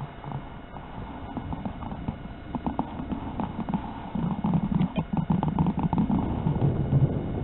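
Strong, gusty wind buffeting the microphone: an uneven low rumble with rapid irregular thumps, growing louder about four seconds in.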